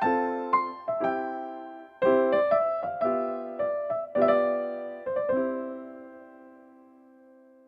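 Background piano music: gentle chords struck in short runs, the last chord ringing out and fading away over the final couple of seconds.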